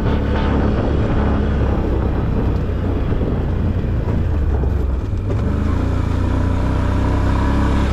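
Off-road vehicle's engine running steadily at low speed while driving along a dirt trail.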